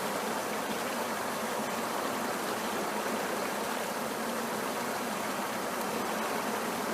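Steady, even rushing of flowing creek water.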